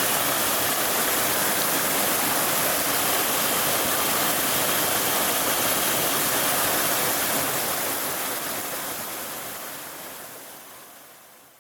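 Mountain valley stream rushing steadily over its bed, fading out smoothly over the last four seconds.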